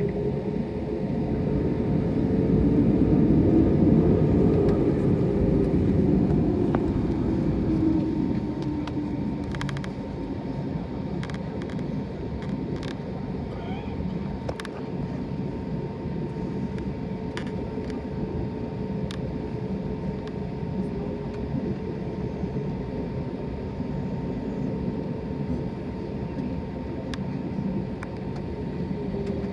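Cabin noise of an Airbus A320neo taxiing after landing: a steady engine hum with a constant whine, briefly swelling louder about two to eight seconds in. A few light clicks come in the middle.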